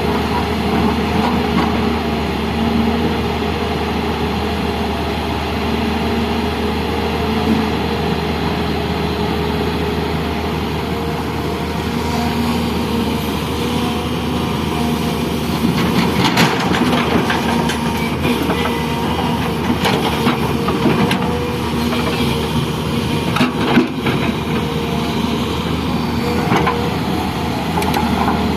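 Excavator engine running steadily, with scattered knocks and rattles through the second half.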